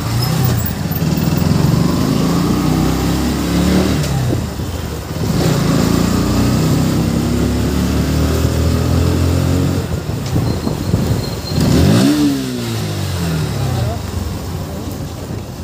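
KTM RC390's single-cylinder engine running under way, its pitch rising and falling with the throttle, with a sharp rev blip about twelve seconds in.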